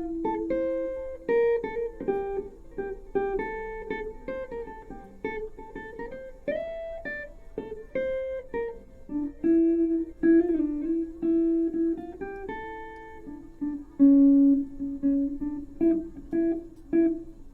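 Jazz guitar played through an amplifier: a picked melody line of single notes, some held and some short, with chords struck now and then.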